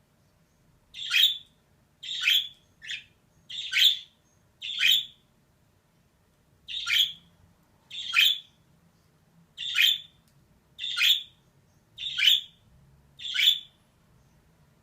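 Female budgerigar giving short, sharp single calls, eleven in a row at about one a second, with a pause of about a second and a half midway.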